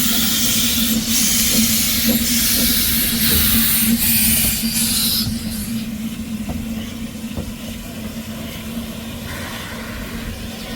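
Narrow-gauge steam locomotive hissing steam, loud for about the first five seconds and then easing off, over a steady low hum.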